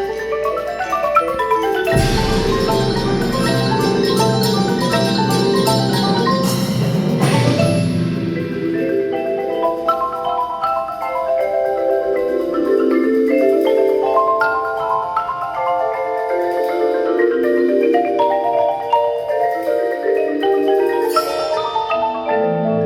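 Percussion ensemble playing, led by marimbas and other mallet keyboards. A heavy low hit about two seconds in opens a fuller passage with a high shimmering wash that ends around eight seconds in. After that the mallet keyboards carry on alone in rippling, rolling figures.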